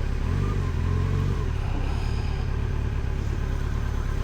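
Motorcycle engine running steadily under way, with the engine pitch rising and easing back a little about a second in, over steady road and wind noise.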